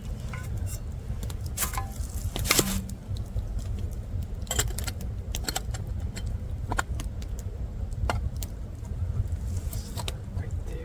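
Campfire burning strongly, wood crackling with scattered sharp pops over a low steady rumble, the loudest crackles about two and a half seconds in.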